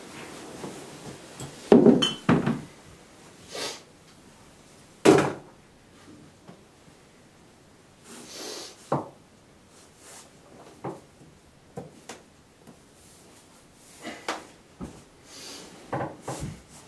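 Irregular knocks, thuds and rustles in a small room, with a cluster of loud knocks about two seconds in, one loud thud about five seconds in, and smaller knocks near the end.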